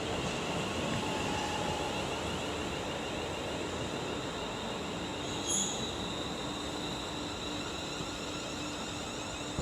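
A Class 350 electric multiple unit running slowly into the platform, with a steady hum and high, wavering wheel squeal. A short, sharp squeal comes about five and a half seconds in.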